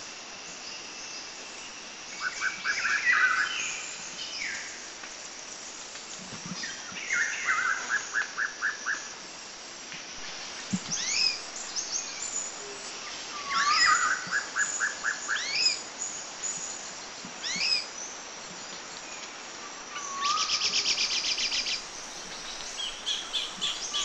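Songbirds singing: a series of separate song phrases every few seconds, made of whistled chirps and quick trills, with a fast buzzy trill near the end, over a steady background hiss.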